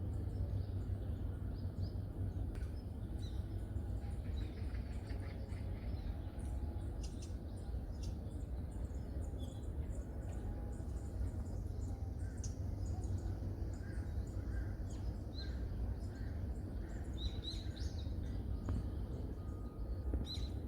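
Scattered short bird chirps and call notes from several birds, over a steady low rumble.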